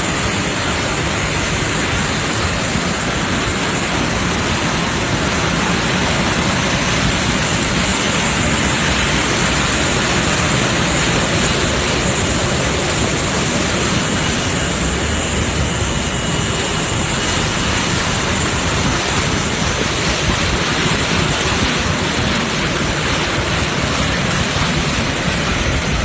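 Aircraft engines running with a steady, loud roar and a faint high whine.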